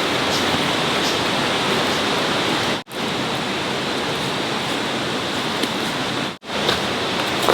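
Steady, loud rushing noise, broken by two brief sharp dropouts.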